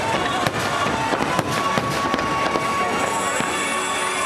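Aerial fireworks shells bursting in quick succession, a dense run of bangs and crackles, with music playing underneath.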